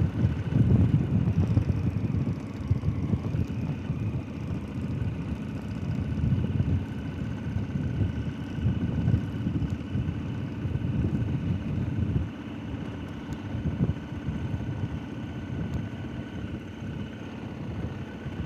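Motorcycle engine running while riding on a dirt road, with wind buffeting the microphone.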